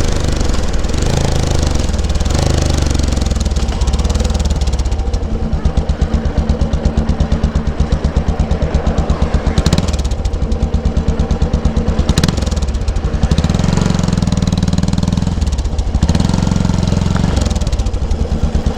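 Yamaha SR500's single-cylinder four-stroke engine exhaust, ridden, its steady thumping pulse rising and falling with the throttle and swelling louder about two-thirds of the way in.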